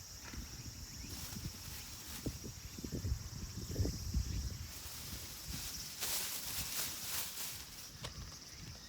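Outdoor field ambience: a steady high-pitched chirring, with scattered low rumbles and a brief rustle about six seconds in.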